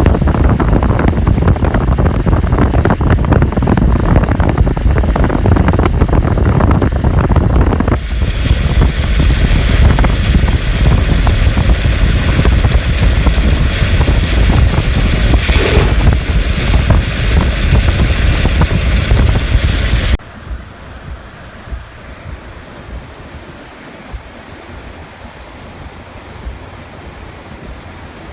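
Rushing water of a river swollen by heavy rain, with wind buffeting the microphone. About 20 seconds in, the sound drops abruptly to a much quieter steady rush.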